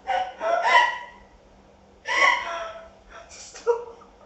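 Women laughing helplessly in three short bursts with catching breaths in between.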